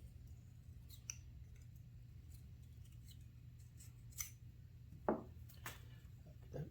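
Small metal hand tools clicking and scraping against carburetor parts during a two-barrel carburetor teardown, a few scattered sharp clicks, the stronger ones in the last two seconds. A steady low hum lies under them.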